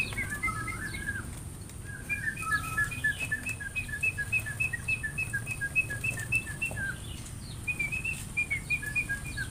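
A small bird chirping in a fast, even series of short two-note chirps, about three a second. It pauses briefly near the seventh second, then starts again.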